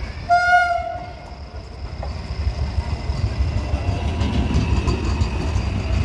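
Indian local passenger train giving one short horn blast about a third of a second in, then its coaches rolling past close by as it pulls into the platform, a low rumble that grows louder.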